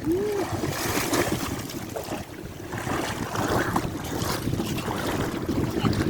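Sea water splashing and washing in a steady rush, with wind buffeting the microphone.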